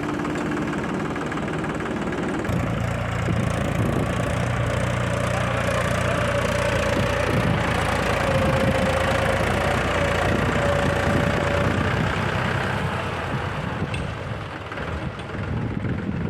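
Heavy diesel engine running steadily. About two seconds in, its note drops and grows slightly louder, and a whine rises and falls over it for several seconds.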